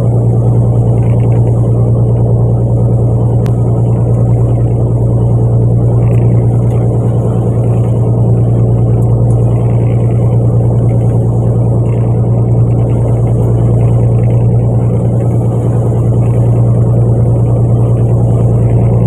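Fishing boat's engine running steadily, a loud, unchanging low drone.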